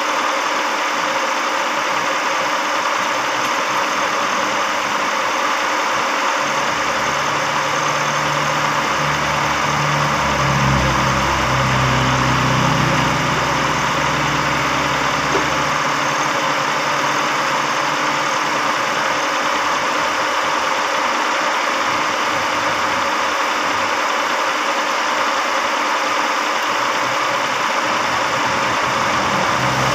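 Carbureted car engine idling steadily while its freshly cleaned carburetor is tuned to cure a misfire. A deeper hum comes in between about 7 and 15 seconds in.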